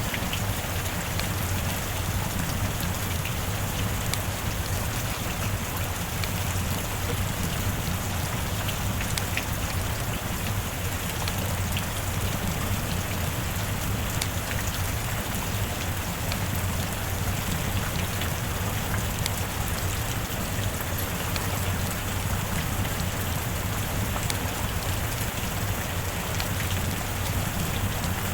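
Steady rain falling: an even, unbroken hiss with scattered faint drop ticks and a low steady rumble beneath.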